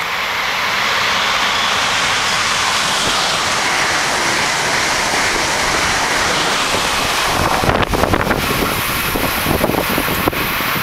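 Amtrak Acela Express high-speed train passing close by: a loud, steady rush of air and rail noise, with wind buffeting the microphone. About two-thirds of the way through, a rapid run of clicks and knocks from the wheels comes in over a deeper rumble.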